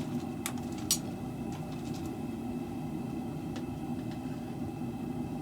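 Steady roar of a propane forge burner, with two light metallic clinks about half a second and a second in.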